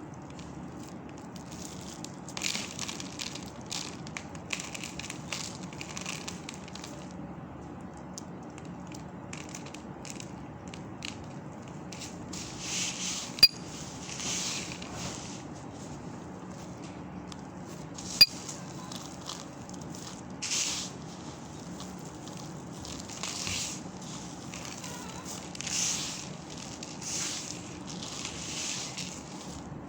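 Dry soap balls being crushed: a series of crisp crunches, some quick and some drawn out, with two sharp clicks about five seconds apart near the middle.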